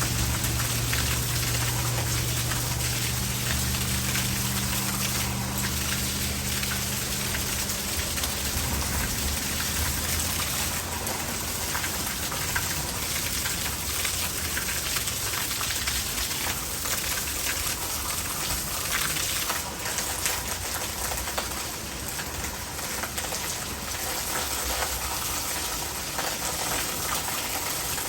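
Heavy rain falling, with rainwater gushing into a gutter. A low rumble of thunder fades away over the first ten seconds or so.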